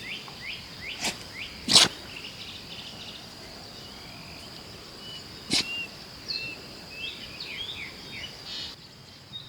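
Outdoor rural ambience: a steady high-pitched insect buzz with birds chirping in short calls, broken by three sharp clicks or knocks, the loudest about two seconds in.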